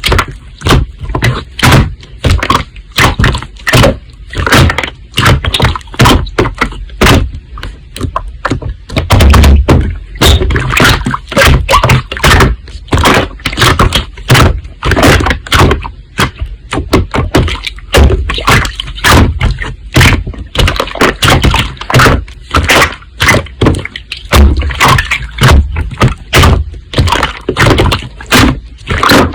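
Slime being squeezed and pressed, with rapid, irregular crackling and popping clicks and a few heavier low squelching thumps.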